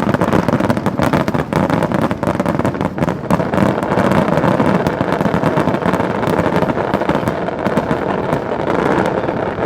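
Fireworks display going off in quick succession: many sharp cracks and pops over a continuous rumble, densest in the first three seconds.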